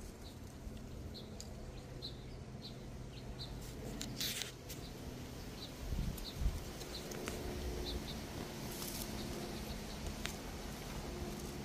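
Small bird chirping over and over in short high chirps, about two a second. There are a couple of brief rustles and a dull bump about six seconds in.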